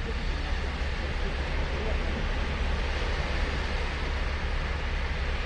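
Ocean surf: a steady wash of breaking waves on the beach, with a constant low rumble underneath.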